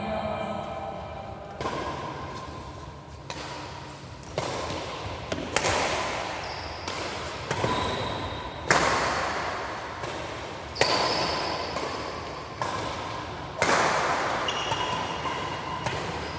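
A rally of sharp hits in a court sport, echoing through a large sports hall, about one every one to two seconds. The hardest hit comes a little past the middle.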